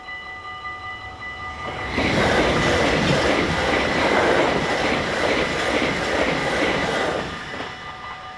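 Electric passenger train passing a railway level crossing at speed: a loud rush of wheel and rail noise with a regular clatter, from about two seconds in until it fades about seven seconds in. The crossing's warning bells ring steadily underneath it.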